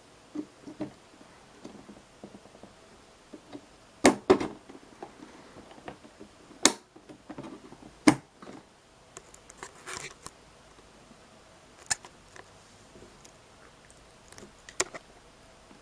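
Desktop PC parts being handled and fitted: a scattered series of sharp clicks and knocks, the loudest a cluster about four seconds in and single knocks near seven and eight seconds.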